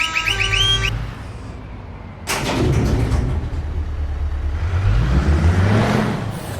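Scania truck engine running with a low rumble. A little after two seconds it suddenly gets louder, and near the end the engine note rises as it revs. A string of steady pitched tones ends about a second in.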